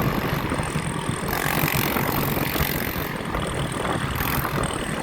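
Steady road traffic noise with engines running and a constant, uneven low rumble.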